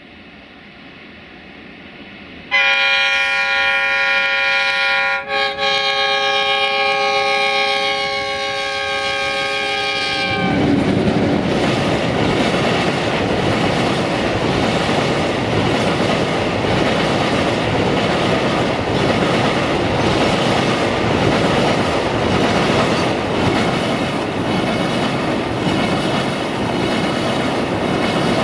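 LDE2100 (060-DA) Sulzer diesel-electric locomotive sounding its air horn, a chord of several notes, starting suddenly about two and a half seconds in. The horn blows for about eight seconds, broken once briefly. Then the freight wagons roll past close by with a steady rumble and the clickety-clack of wheels over rail joints.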